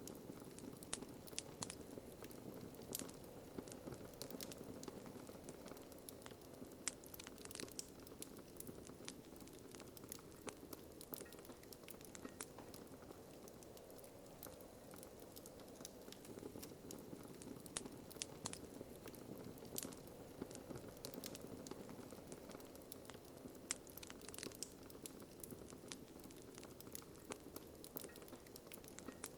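Wood fire in a fireplace crackling softly: irregular sharp pops and snaps over a steady low hush.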